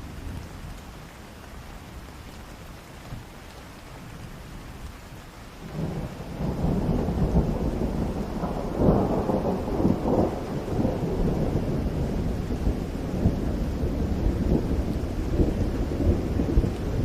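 Steady rain falling, then about six seconds in a long roll of thunder sets in, deep and rumbling, swelling a few seconds later and still going at the end.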